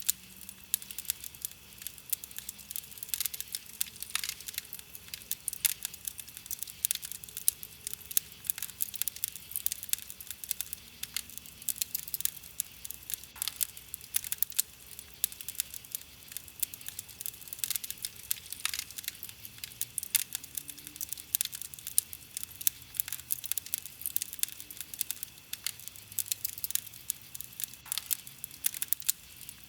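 Wood campfire crackling, with dense, irregular pops and snaps of burning wood.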